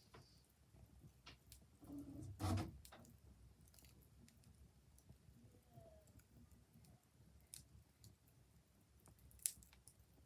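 Faint wood fire crackling, with scattered, irregular pops and a louder muffled thump about two and a half seconds in.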